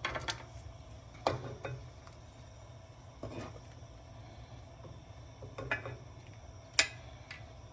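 Scattered clinks and knocks of kitchen utensils against a pot and dish as boiled chicken pieces are lifted out of the stock, the sharpest knock near the end, over a low steady hum.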